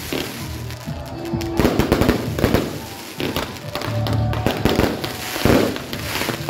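Fireworks crackling and popping in quick bunches of sharp reports, one bunch about a second and a half in and another near the end. Music plays steadily underneath.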